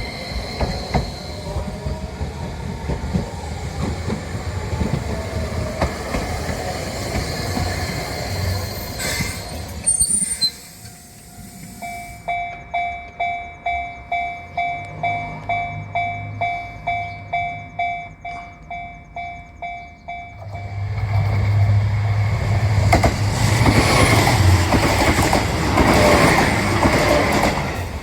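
Rail-vehicle rumble, then a Japanese level-crossing warning bell dinging about twice a second. About 20 seconds in, the bell gives way to a loud passing diesel train, the JR Nanohana rapid, with a steady engine drone under the wheel and rail noise.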